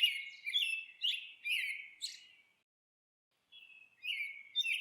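A small songbird chirping over and over, about two short falling chirps a second. The chirps stop for about a second midway, then start again.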